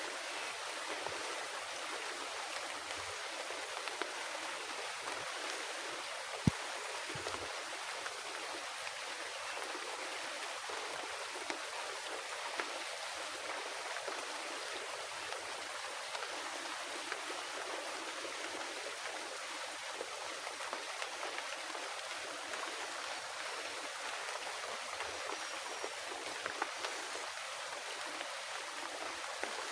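Heavy rain falling steadily in a forest, an even hiss with scattered small ticks. A single sharp click sounds about six and a half seconds in.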